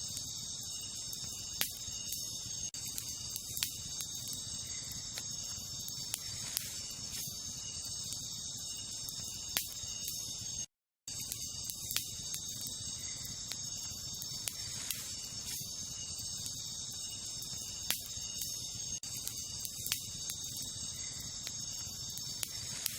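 Wood campfire burning, with sharp crackles and pops every second or two over a low steady hiss, against a steady high-pitched chorus of crickets. The sound cuts out completely for a moment about halfway through.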